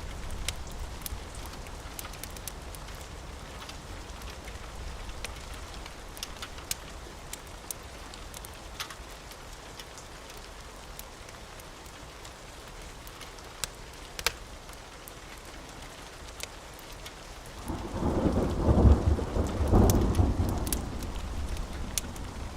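Steady rain with a scattering of sharp crackles from a wood fire. A loud roll of thunder rumbles about eighteen seconds in and lasts a few seconds.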